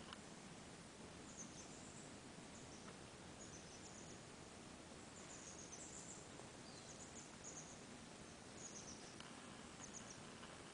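Near silence: quiet forest background with faint, very high-pitched bird chirps coming in short clusters every second or two.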